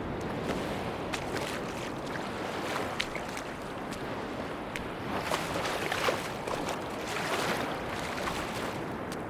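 Sea surf washing onto a beach: a steady rush with scattered crackles, swelling into a fizzing wash about halfway through.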